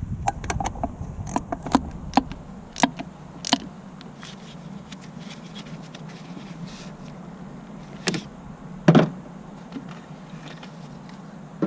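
Scattered clicks and short knocks of tools and metal parts being handled, the loudest knock about nine seconds in, over a steady low hum.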